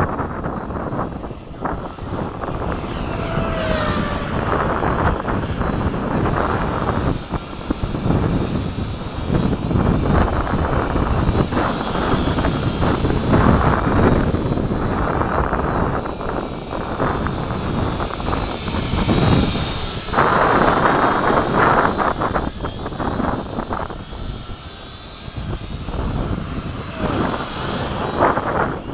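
Electric RC model airplane flying, its motors giving a thin, wavering high whine, under heavy, gusting wind noise on the microphone.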